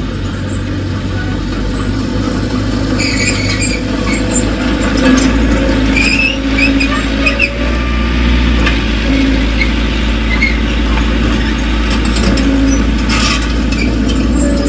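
Heavy earthmoving machinery at work: a diesel engine running low and steady, with short high metallic squeals coming and going.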